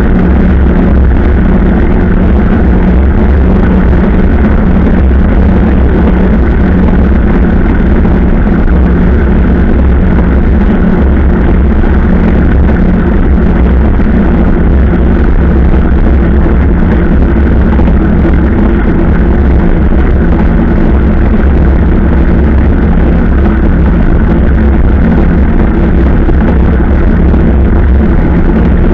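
Steady vehicle engine drone over a heavy low rumble, holding an even pitch throughout.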